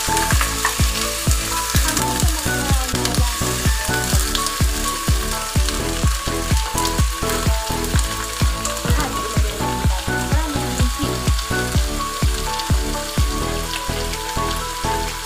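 Chicken pieces sizzling as they sauté in a pot, stirred with a wooden spoon, under background music with a steady beat of about two pulses a second.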